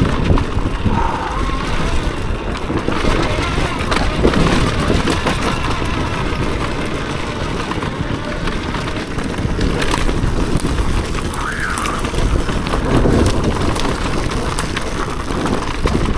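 Two-stroke dirt bike being ridden over rough trail: engine running under the rider, with a steady rush of noise and constant rattling clatter of tyres and suspension over rocks and roots.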